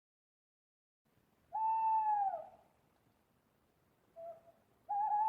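Owl hooting: a long hoot about a second and a half in that falls in pitch at its end, then near the end a short low note and a longer, slightly wavering hoot.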